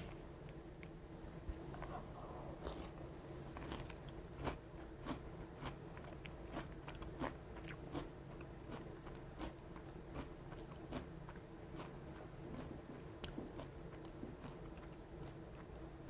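Faint, irregular crunching of someone chewing mouthfuls of Chex Choco cereal in milk while it is still crisp.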